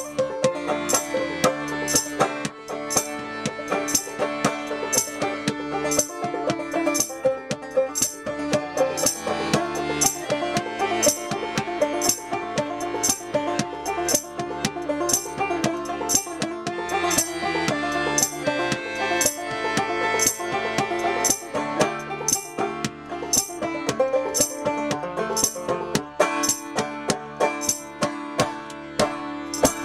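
Banjo-led folk punk played live by a duo, with a steady beat of sharp high hits about twice a second.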